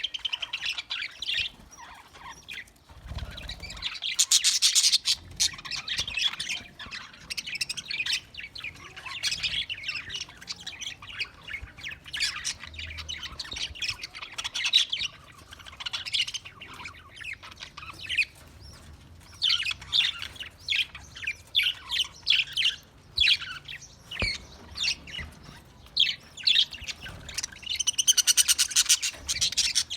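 Several budgerigars chirping and chattering continuously, with short squawks. Bursts of fast, high chatter come a few seconds in and again near the end.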